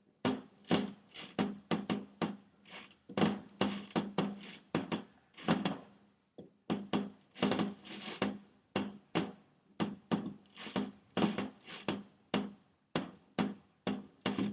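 An irregular run of short, sharp knocks or bangs, two or three a second, with brief pauses between clusters.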